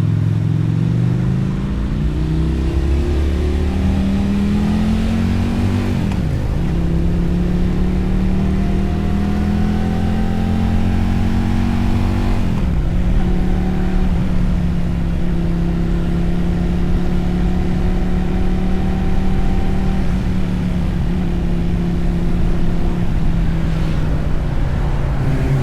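Motorcycle engine and exhaust under way, accelerating through the gears: the pitch climbs, drops at an upshift about six seconds in, climbs again to a second upshift about halfway through, then holds steady at cruising speed.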